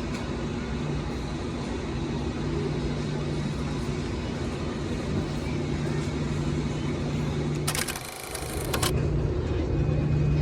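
Steady hum and rumble of a moving public-transit vehicle, with a short sharp hiss about eight seconds in.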